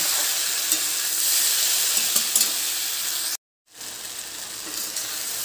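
Okra masala sizzling on high heat in a steel kadhai while a spatula stirs it, with light scrapes against the pan. The sound drops out for a moment about three and a half seconds in, then comes back quieter.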